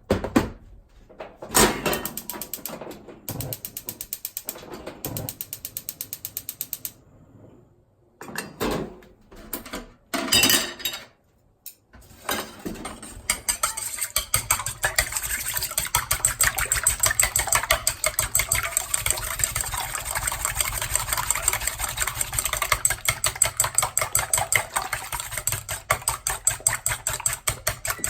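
Eggs being beaten in a bowl: first a run of separate knocks and short clattering bursts, then about halfway through a fast, even clicking of the utensil against the bowl that goes on steadily.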